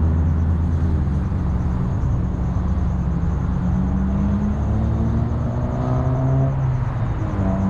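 Car engine and road rumble while driving. The engine pitch climbs steadily as it accelerates, drops about seven seconds in, then starts climbing again.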